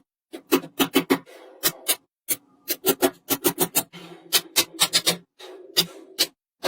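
Small magnetic steel balls clicking sharply as they snap together one after another, about twenty clicks at an uneven pace in quick bursts, with a softer rubbing sound between some of them.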